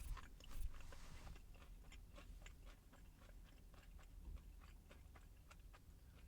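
Faint, close-miked chewing of a crispy spicy chicken and bacon sandwich: soft crunches and wet mouth clicks, the strongest in the first second.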